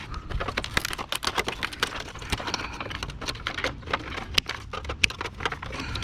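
Quick, irregular clicks and light clatter of small parts and tools being handled while a window air conditioner is taken apart for scrap.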